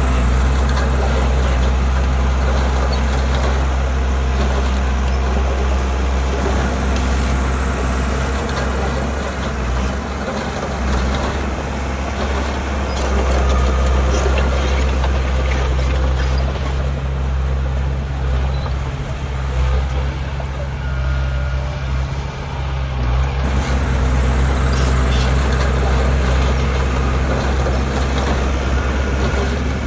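Heavy diesel engine of earthmoving machinery running steadily under load, with a strong low hum.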